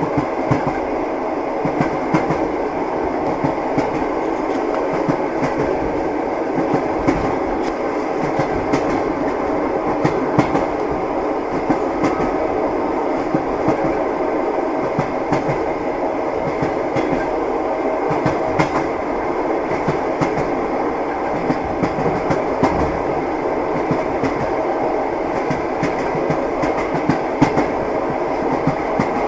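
Rhythmic clickety-clack of train wheels over rail joints, under a steady rumble of a moving passenger carriage, as heard from inside the compartment.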